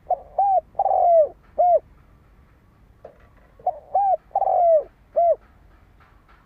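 Spotted dove cooing: two phrases about three seconds apart, each of a few short coos with one longer, drawn-out note in the middle. It is the challenge call used on a decoy dove to lure wild birds.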